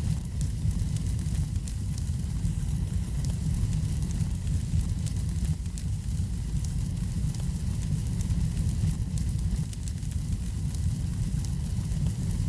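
Wood fire burning in a fireplace: a steady low rumble with frequent small, sharp crackles and pops scattered throughout.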